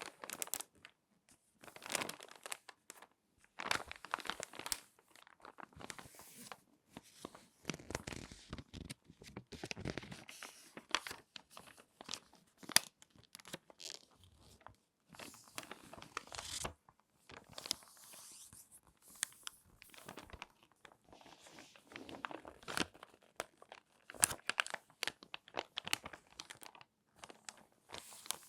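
Crinkly glossy magazine pages being folded and creased by hand: irregular crackling and rustling, close and detailed, coming in bursts with short pauses between.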